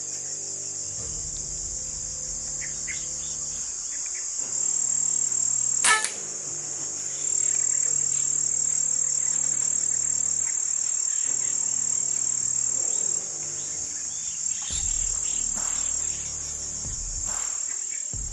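Loud, steady high-pitched insect drone, finely pulsing, with one sharp crack about six seconds in.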